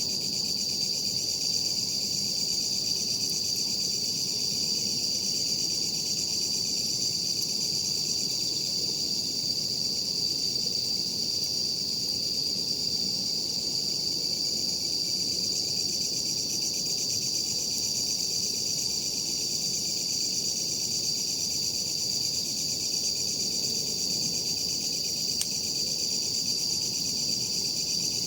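Steady, unbroken high-pitched chorus of night insects, cricket-like, holding one high tone throughout.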